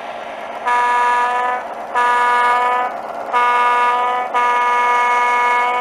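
Soundtraxx Econami DCC sound decoder in an HO scale GP-7 model locomotive sounding a single-chime diesel air horn through its small sugar cube speaker: four one-note blasts, the last one longest. Under it runs the decoder's steady diesel engine sound.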